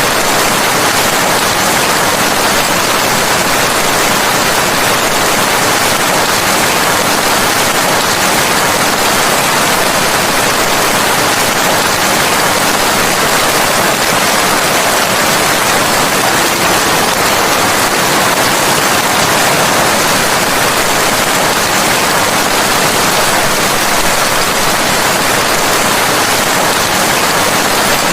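Rain falling steadily: a loud, even hiss with no single drops or thunder standing out.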